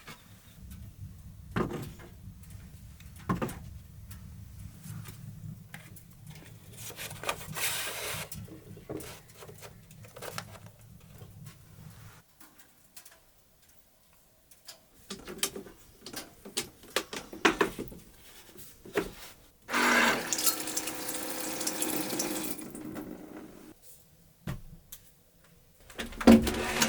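Water running in three short spells, the longest about two and a half seconds, with small knocks and clatter between them.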